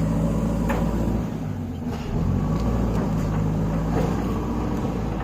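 Diesel engine of a JCB backhoe loader running. Its note drops a little over a second in and picks up again about two seconds in.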